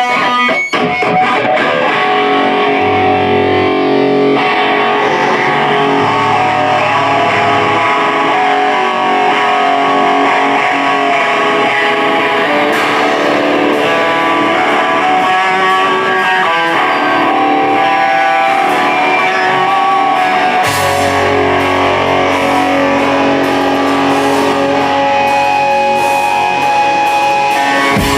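A rock band playing a song live, led by electric guitar through effects. Deep low notes come in briefly twice early on and then hold steadily from about three-quarters of the way through.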